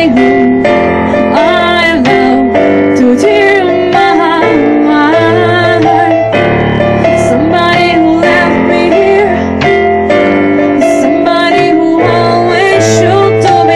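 A band playing a song with a woman singing the lead over piano-like keyboard chords and bass.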